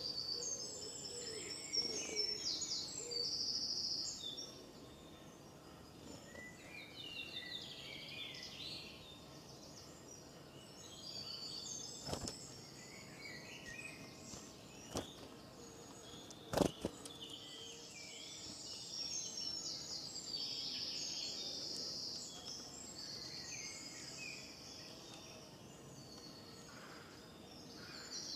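Birds chirping and singing, with a few sharp knocks near the middle, the loudest about two-thirds of the way through.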